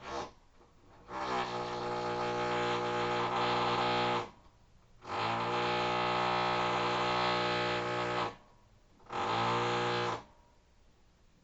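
Electric rotary hammer drill run in three bursts, each spinning up with a rising pitch into a steady, buzzing drone. The first two bursts last about three seconds each; the last, near the end, lasts about a second.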